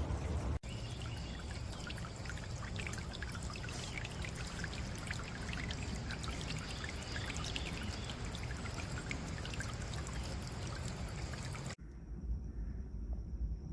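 Water from a solar-powered bird bath fountain spraying and splashing into the basin, a steady patter of many small droplets. It cuts off abruptly near the end, leaving only a low rumble.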